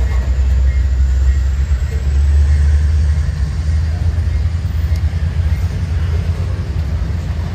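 Train rolling past, a loud steady low rumble.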